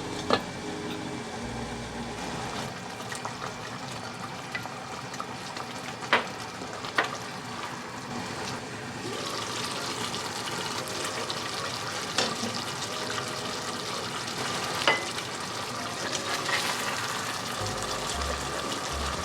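Steady hiss of food frying and simmering in a pan, growing louder and fuller about nine seconds in, with a few sharp clicks of a utensil against the pan.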